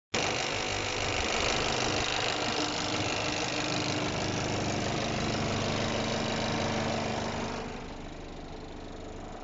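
Renault Mascott's 3.0 ZD3 diesel engine running steadily at idle; the sound drops noticeably in level about seven and a half seconds in.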